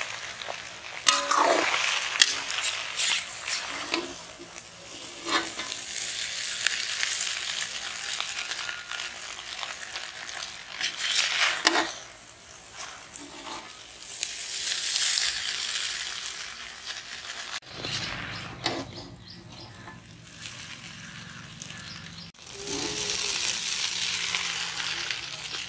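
Mutton noodles sizzling and frying in a large metal wok while they are tossed and stirred with a long metal spatula, with scattered scrapes and knocks of the spatula on the pan.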